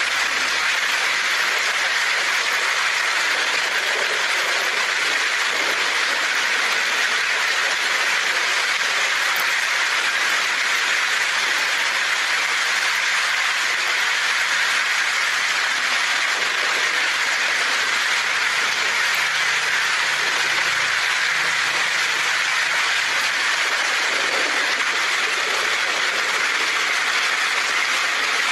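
Heavy rain drumming steadily on a tin roof: a dense, even hiss at a constant level.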